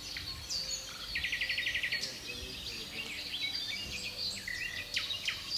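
Several birds chirping and whistling over a faint steady hiss of background ambience. About a second in, one gives a rapid trill of roughly a dozen notes a second that lasts under a second.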